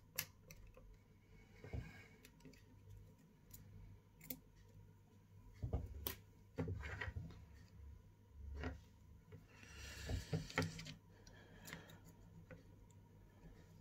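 Small hand tools clicking, tapping and briefly scraping against the parts of an iPhone XR being taken apart, in scattered light ticks with a short scraping spell about ten seconds in.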